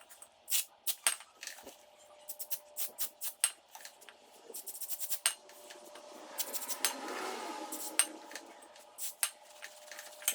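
Aerosol can of brake cleaner sprayed onto a motorcycle's brake rotor and caliper in hissing bursts, about four and a half and six and a half seconds in. Scattered metallic clicks and clinks run between the bursts.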